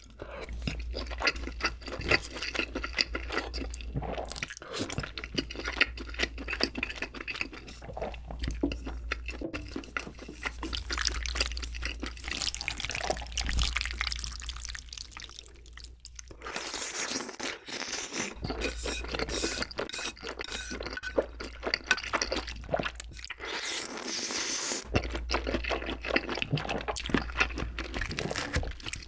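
Close-up wet chewing of soy-braised chicken and wide glass noodles (jjimdak): many small sticky, smacking mouth clicks. There are a few longer hissing slurps of the noodles about halfway through and again later.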